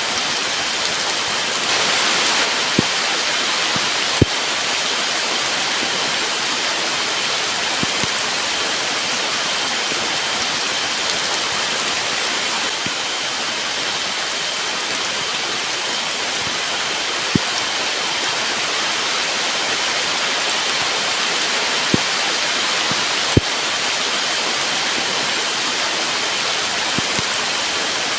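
Heavy rain falling steadily as a dense, even hiss, with occasional single sharp knocks of big drops landing. Two thin, steady high tones run underneath.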